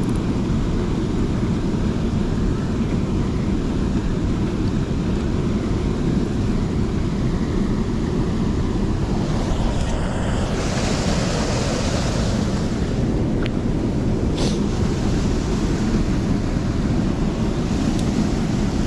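Steady rushing of a valley stream, with wind buffeting the microphone. The hiss grows brighter for a few seconds around the middle.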